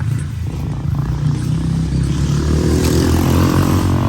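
Dirt bike engine running and revving, getting louder, its pitch rising about two seconds in.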